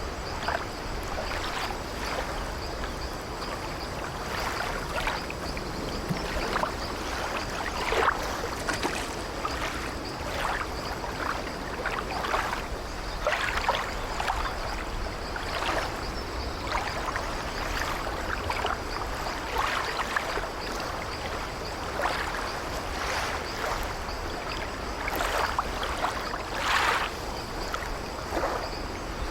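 Sea waves washing against an old wooden ship, with the hull and deck timbers creaking: a steady wash and low rumble, broken by frequent short, irregular creaks and splashes.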